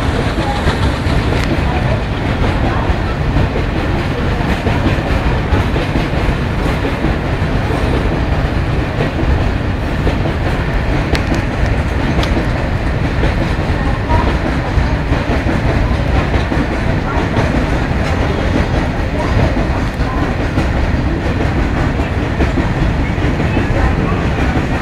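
Long rake of BCN covered goods wagons running through on the rails: a steady, loud noise of wheels and wagons.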